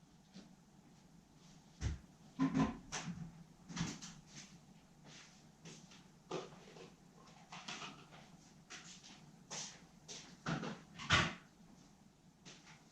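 Irregular knocks and clacks of hard objects being handled and set down, about ten of them, the loudest about two and a half seconds in and again about eleven seconds in.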